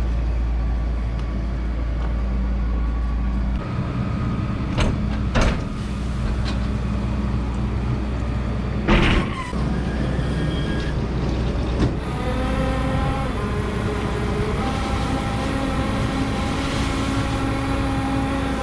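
Tractor engine running with a self-unloading forage wagon discharging chopped corn silage into a bunker silo: a steady machine drone with a few knocks about five and nine seconds in, and a steady whine joining about twelve seconds in.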